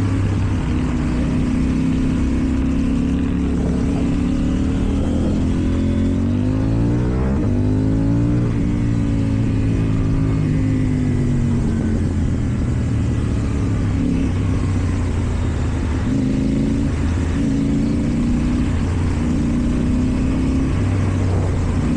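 KTM Duke 790's parallel-twin engine through an Akrapovič exhaust, accelerating and easing off while riding. Its pitch climbs for a couple of seconds about six seconds in, then falls away, with smaller changes in throttle later on.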